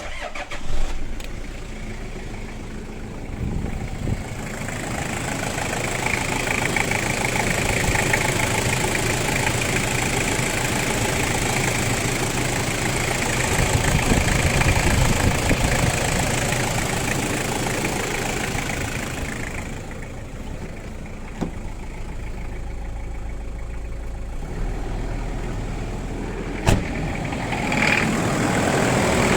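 Toyota 1KZ four-cylinder 3.0-litre turbodiesel running with a knock that the owner puts down to the fuel injectors. The sound grows louder in the middle and eases back about two-thirds of the way through.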